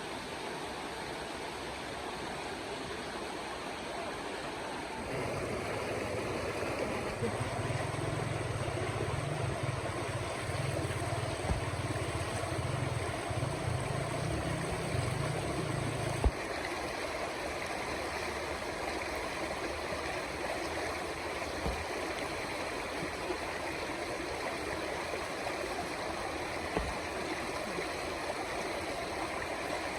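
River water flowing in a steady rush. A low hum rides on top of it for about ten seconds and cuts off suddenly.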